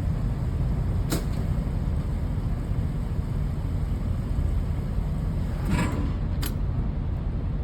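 Steady low vehicle rumble while a semi truck's tank is filled with diesel, with a sharp click about a second in and two more clicks near the end.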